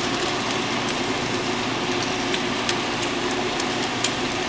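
Bacon sizzling in a frying pan, with scattered sharp pops and crackles over a steady low hum.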